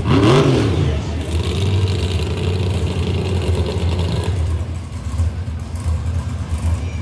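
Monster truck engine revving up and down once, then running steadily for a few seconds before fading.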